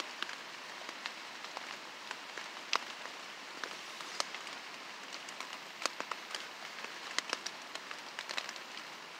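Rain falling steadily on a tarp overhead: a constant hiss with many scattered sharp taps of individual drops hitting the tarp.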